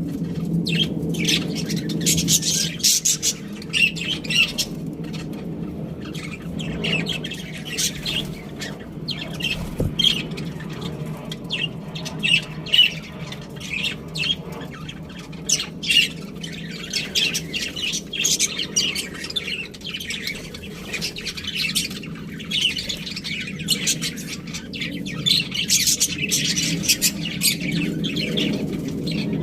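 A group of budgerigars chirping and chattering continuously, many short overlapping chirps and squawks, over a steady low hum.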